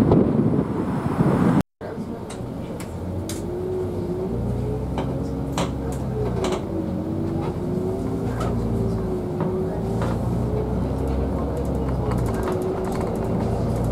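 Public transport vehicle sounds: a loud rushing noise, then, after a cut, a steady vehicle hum with a tone that wavers slightly in pitch and scattered clicks.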